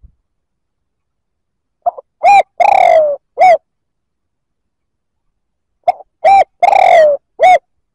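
Spotted dove cooing, a lure call for wild doves. It gives two phrases about four seconds apart. Each is a short note, then a short coo, a long falling coo and a final short coo.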